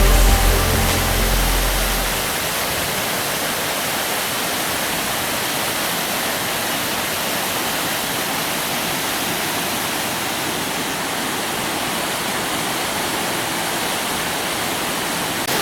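Steady rush of a waterfall: an even, unbroken noise of falling water, with a music track fading out about two seconds in.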